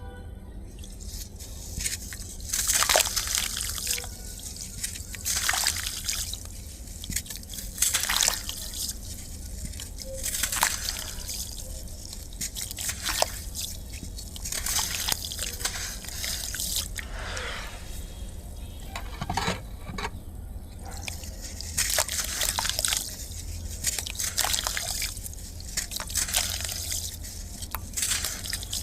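Clumps of dry black sand crumbling and dropping into water, a crackly splash every two to three seconds.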